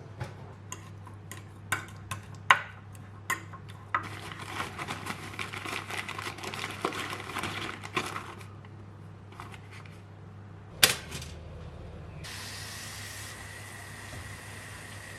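Kitchen work: dishes and utensils clink and knock several times, then a hissing stretch of a few seconds and one sharp clack. Near the end comes a steady hiss with a faint high tone, over a low steady hum.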